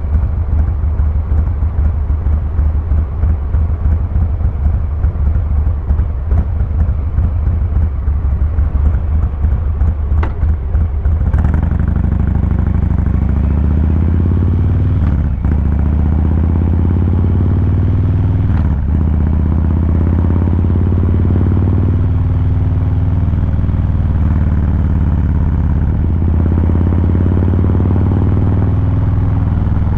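Harley-Davidson Fat Boy 114's Milwaukee-Eight V-twin exhaust, idling with an uneven, pulsing beat, then pulling away about eleven seconds in and accelerating through the gears, the pitch climbing in each gear with shifts at about fifteen and nineteen seconds.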